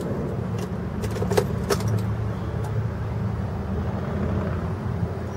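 JAC T5's 1.5 flex-fuel engine idling steadily just after being started, with a couple of light clicks about a second and a half in.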